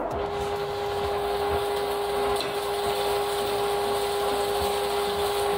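Broccoli sizzling steadily as it is sautéed in a pot, with a spoon stirring it, over a constant electrical hum with a steady whine.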